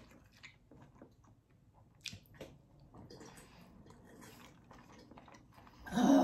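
Close-miked chewing of cheese-topped broccoli: soft wet mouth clicks and crunches, with a sharper snap about two seconds in. Near the end a loud, short throat noise as a mouthful of broccoli sticks in the throat.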